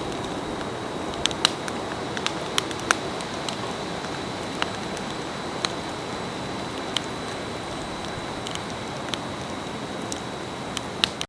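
Wood campfire burning: irregular sharp crackles and pops over a steady hiss.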